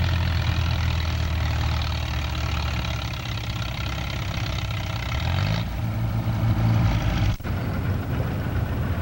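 Farmall Super M tractor engine running hard under load, a steady low drone. About five and a half seconds in its pitch rises, and there is a sudden brief dropout a couple of seconds later.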